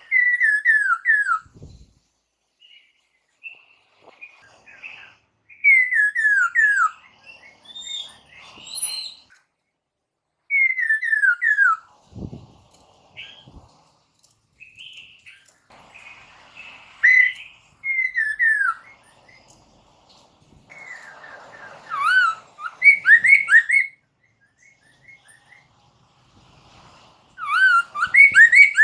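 Poksay mandarin (black-throated laughingthrush) singing loud whistled phrases, each a quick run of notes sliding downward, repeated after short pauses with softer notes in between. Played as a provoking song to make other poksay answer.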